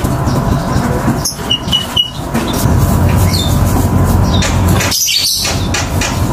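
Small birds chirping: a few short, high notes about a second and a half in, over a steady low background noise.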